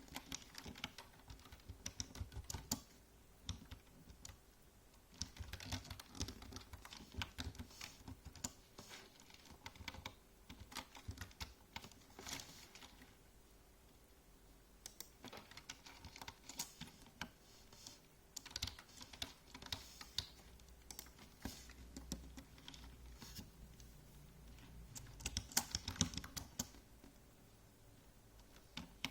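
Typing on a computer keyboard: rapid runs of key clicks in bursts of a few seconds, broken by short pauses, over a faint steady hum.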